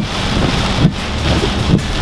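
Hurricane-force wind and rain on a moving car, with gusts buffeting the microphone in irregular dull low thumps.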